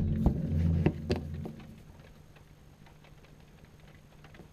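A low, steady droning hum of several notes, the kind of unexplained 'strange sound from the sky' being recorded, fades out about a second and a half in, with a few sharp clicks around it. After that only a faint background hum remains.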